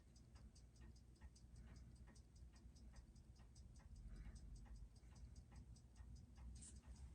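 Faint, fast, steady ticking of a Seiko 6R15 automatic watch movement, its beat picked up by a timing machine's microphone. The 6R15 beats 21,600 times an hour, six ticks a second.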